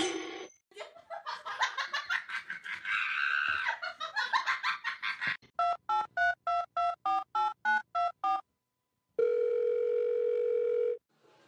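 Telephone touch-tone keypad being pressed: about a dozen short two-tone beeps in quick succession, followed by a steady phone tone of about two seconds. A rapid run of clicks and chatter comes before the beeps.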